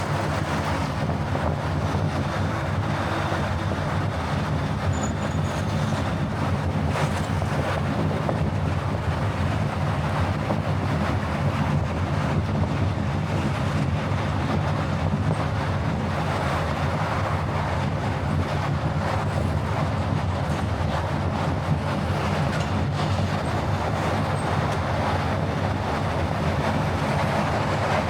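Car driving at a steady speed: a constant engine hum with tyre and road noise.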